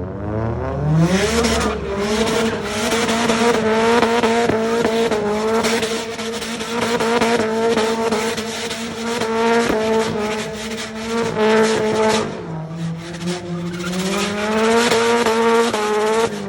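Car engine revved hard and held at high revs in a burnout, its spinning tyres squealing. The revs ease off briefly about three-quarters of the way through, then climb again before falling away at the end.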